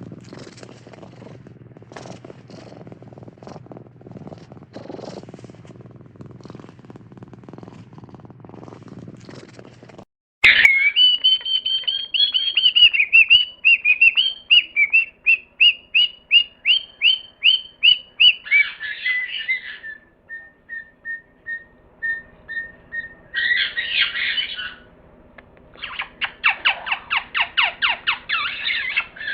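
A low, noisy rumbling for about the first ten seconds, then a bird calling loudly: fast strings of high chirping notes, a run of evenly spaced single notes, and harsh squawking bursts near the end.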